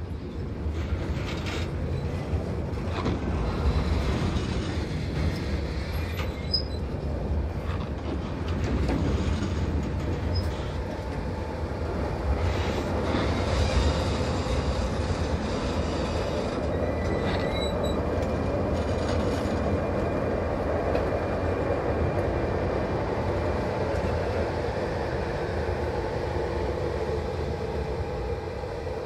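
A slow-moving freight train of car-carrier wagons pushed by a Siemens ER20 Eurorunner diesel-electric locomotive. It makes a steady low rolling rumble with occasional wheel and coupling knocks and faint high wheel squeal. The sound is loudest about halfway through, as the locomotive goes by.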